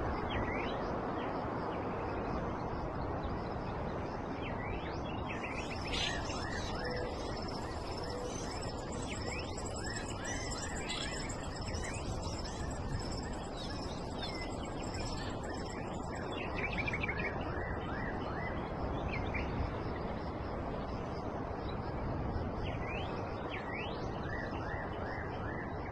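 Outdoor ambience: birds chirping and calling over a steady low background hiss, with a high, steady piping song through the middle stretch.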